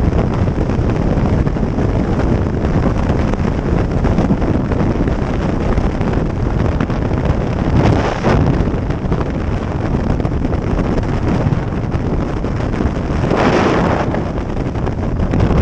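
Wind buffeting the microphone on a moving motorcycle, with engine and road noise beneath. There are two brief louder whooshes, about halfway through and near the end.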